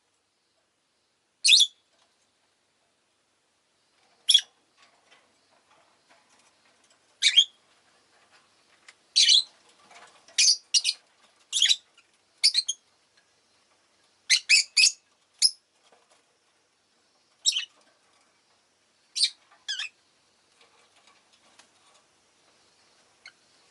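Rosy-faced lovebirds giving short, sharp, high chirps, some single and some in quick runs of two to four, with quiet gaps between.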